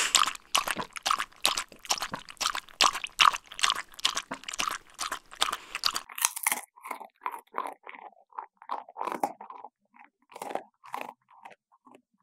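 A dog chewing, crunching something brittle in quick bites. About six seconds in the crunches become sparser, with short pauses between them.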